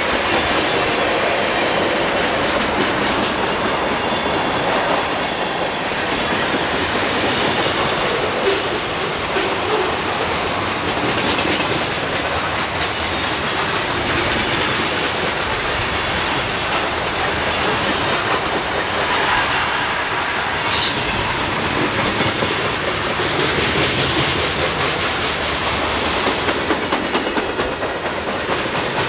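Freight cars rolling past at close range: a steady rumble and rattle of steel wheels on rail, with the clickety-clack of wheels crossing rail joints.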